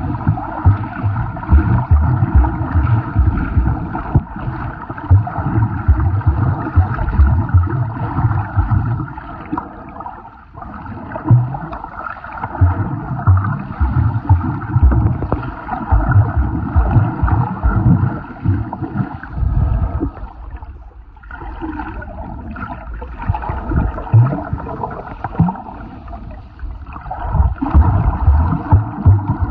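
Muffled sloshing and gurgling of shallow sea water heard through an underwater camera, with frequent irregular low thumps as the water surges against it.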